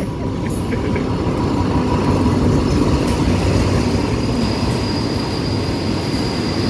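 Diesel locomotive and its passenger coaches rolling slowly past into the station, a loud steady rumble of wheels on rail that builds over the first couple of seconds. A thin, high, steady squeal from the braking train joins about halfway through as it comes in to stop.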